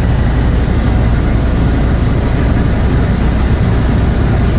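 Light aircraft engine running steadily: a loud, even drone with no change in speed.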